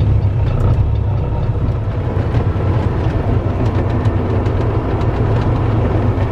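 Kenworth T660 semi truck's diesel engine running steadily while driving, heard from inside the cab as a constant low drone with light rattles.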